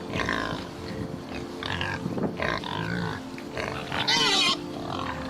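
Pig vocalising: a run of short grunts and calls, with one loud squeal of about half a second some four seconds in.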